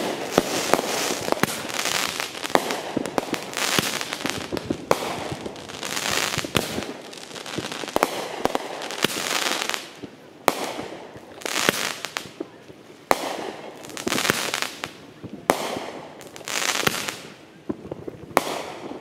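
Fireworks display: many sharp bangs of bursting shells in quick succession, mixed with bursts of crackling that swell and fade every second or two.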